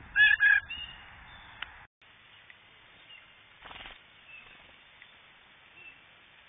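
Two loud, harsh bird calls in quick succession right at the start, then faint outdoor background with a brief rustle about halfway through.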